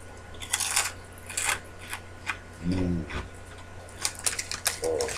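Crunchy Cheetos being chewed: a run of short, sharp crunches, with a brief hum from the eater about three seconds in and the snack bag crinkling as a hand reaches into it around four seconds in.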